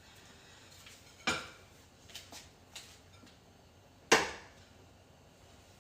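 Kitchenware clanking as food is dished out: a loud clank about a second in and another, louder and ringing briefly, near four seconds, with a few light taps between.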